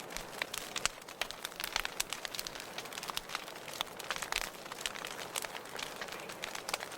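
Wood fire burning in a fireplace, crackling and popping irregularly with many small sharp snaps over a soft steady hiss.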